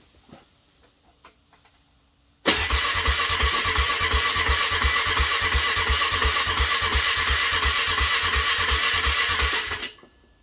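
Car engine being cranked on a cold start: the starter turns it over for about seven seconds with an even chug of about four or five beats a second, then stops abruptly without the engine catching. It is hard starting after a frosty night.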